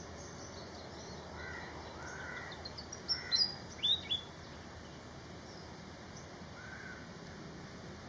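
Small birds calling: a quick run of short rising chirps about three seconds in, followed by several loud, sharp chirps, with a few lower arched notes before and after.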